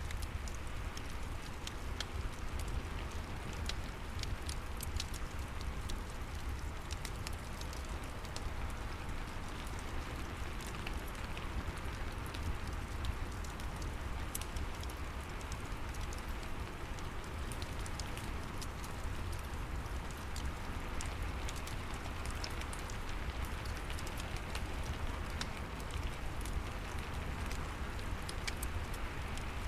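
Steady rain with a low rumble underneath, mixed with the scattered pops and crackles of a wood fire burning in a fireplace.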